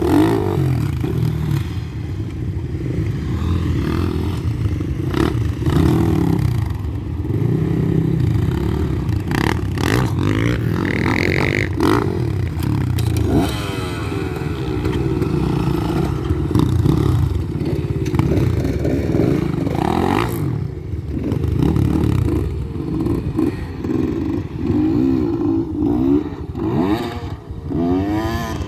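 GasGas EC200 two-stroke enduro motorcycle engine running under load, its pitch rising and falling as the throttle is worked, with frequent sharp knocks from the bike over rough ground.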